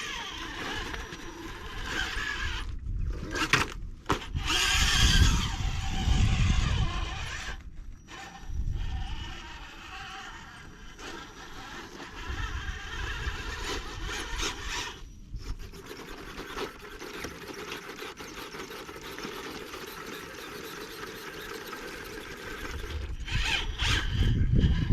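Wind buffeting the microphone in gusts, over a steady high-pitched whine and scrape from a radio-controlled rock crawler working its way over rock.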